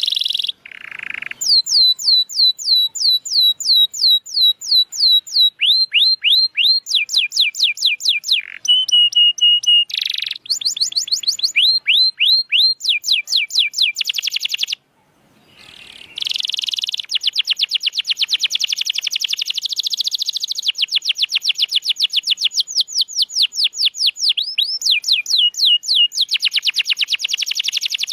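Canary singing a long, loud song of fast rolls, each roll a quick run of repeated falling-pitch notes, switching to a new roll every second or two. There is a brief break about fifteen seconds in.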